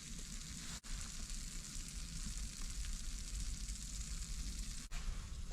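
Claypot rice sizzling in oil in a clay pot on a coal-fired stove: a steady, even hiss with two very brief breaks, one about a second in and one near the end.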